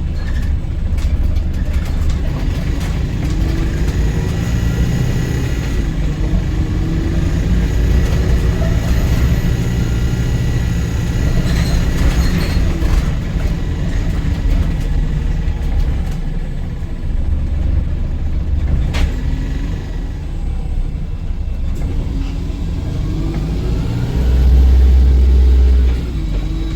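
Inside a Volvo B5LH diesel-electric hybrid double-decker bus under way: the drivetrain runs over a continuous road rumble, its pitch rising and falling several times as the bus accelerates hard and eases off, with short rattles from the body. Near the end, a heavy low drone swells for about two seconds, then drops away.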